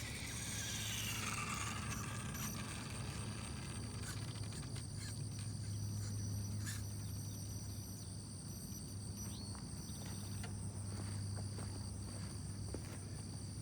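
Outdoor background of insects droning steadily at a high pitch over a constant low hum, with a brief falling whine in the first two seconds.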